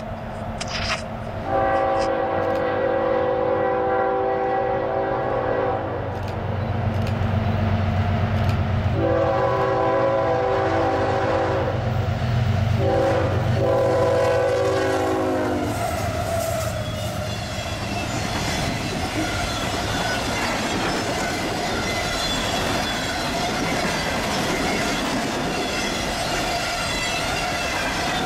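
Freight train passing close by: the two leading diesel locomotives sound their horn in several long blasts over the low drone of the engines, then the horn stops and the cars roll past with a steady rumble, wheel clacking and a faint wheel squeal.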